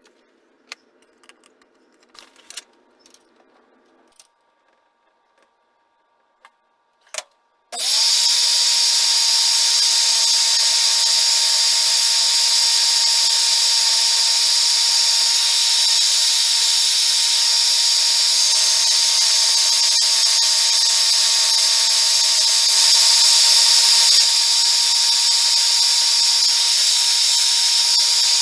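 A few light clicks of handling. Then a powered machine tool starts abruptly about eight seconds in and runs steadily, with a constant high whine over a bright hiss, likely while machining the engine's aluminium or brass parts.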